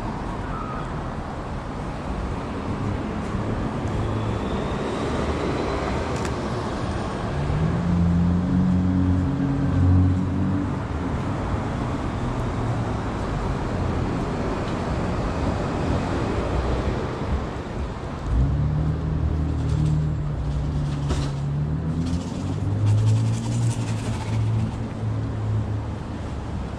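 City street traffic: a steady hum of cars, with heavier vehicle engines passing twice.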